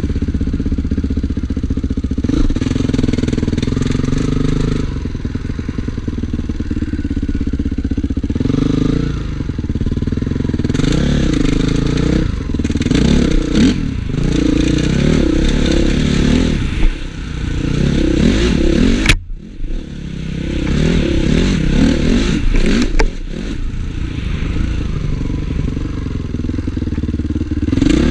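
Honda CRF450 single-cylinder four-stroke motocross engine being ridden hard, its pitch rising and falling over and over with throttle and gear changes. About two-thirds of the way through there is a sharp click and the engine sound briefly drops away, then picks up again.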